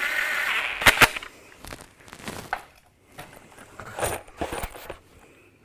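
Metal clinks and knocks of bolts and hand tools against an exhaust manifold as it is fitted and bolted onto a Ford 302 V8, with two sharp loud knocks about a second in and lighter scattered clinks after.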